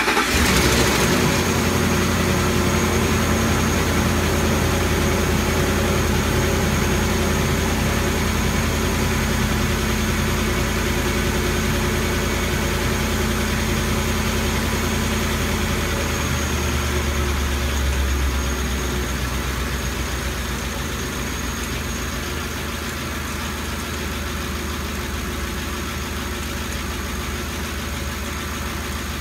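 Ford 5.4-litre three-valve Triton V8 running at idle just after starting, settling to a lower, quieter idle about 18 seconds in. Under it is a constant ticking, typical of a failing roller follower or lash adjuster.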